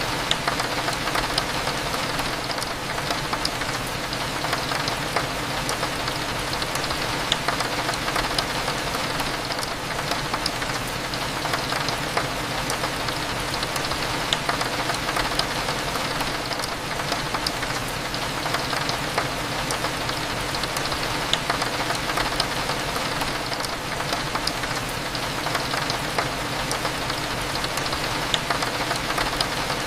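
Steady rain on a window, a dense even patter with many small drop ticks, over a low cafe hum.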